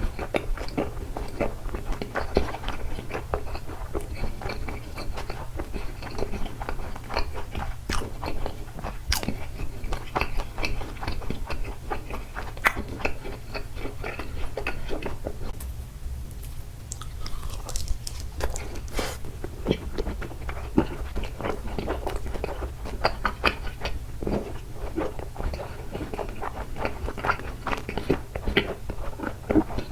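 Close-miked chewing and wet mouth sounds of someone eating takoyaki, a steady run of short smacks and clicks with a brief pause about halfway, over a steady low hum.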